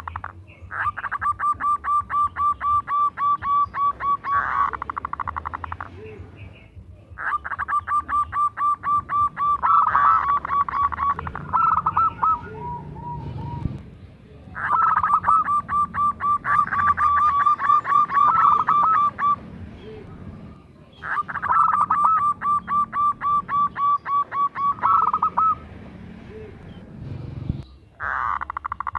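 Zebra dove (perkutut) cooing in long trains of rapid, evenly spaced staccato notes. There are four bouts of several seconds each, separated by short pauses, and a fifth starts near the end.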